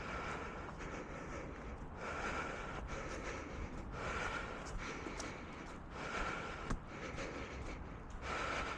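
A runner's breathing, a heavy exhale about every two seconds, over steady noise and scattered footfalls on the trail.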